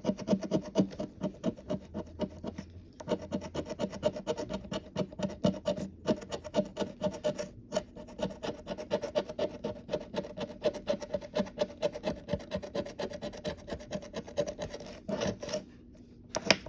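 Scratch-off lottery ticket being scratched: rapid, repeated rasping strokes with a few short pauses, quieter near the end.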